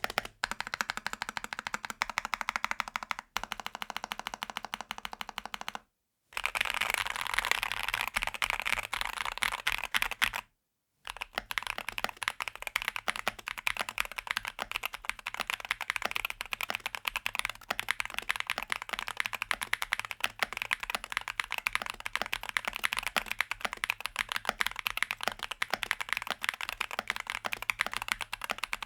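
Fast, continuous typing on a DAXA M61 mechanical keyboard, a dense run of key clicks, cut into separate takes by brief dead gaps about three, six and ten and a half seconds in; the take between about six and ten seconds sounds brighter than the others.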